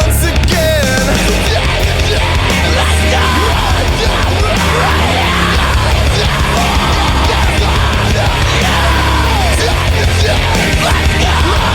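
Loud, dense pop-punk rock music with distorted guitars, bass and drums, and what may be yelled or screamed vocals over it.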